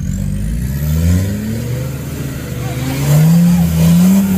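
Off-road 4x4 vehicle's engine revving, its pitch rising about a second in, then revving harder and louder for the last second or so.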